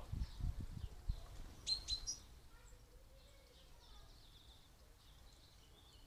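Wild birds chirping, with two sharp high chirps a little under two seconds in and fainter chirping after. A few low thumps in the first second.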